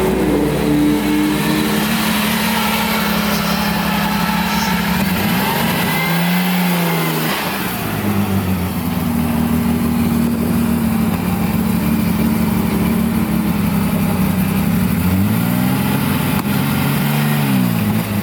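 Modified BMW M3's engine running hard at high revs. About six seconds in the pitch falls and climbs again as it comes off the throttle and accelerates, and near the end it drops and rises several times in quick succession.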